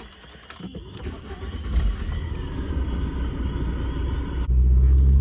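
Volkswagen car engine running, its noise building over the first few seconds, then from about four and a half seconds a louder, steady low engine drone as the car drives.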